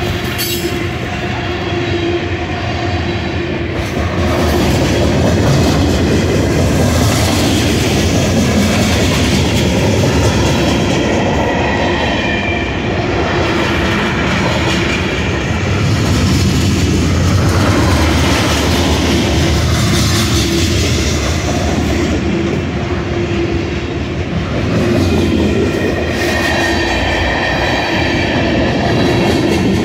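CSX freight train's tank cars, covered hoppers and boxcars rolling past close by: a steady, loud rumble of steel wheels on the rails, with faint high tones coming and going.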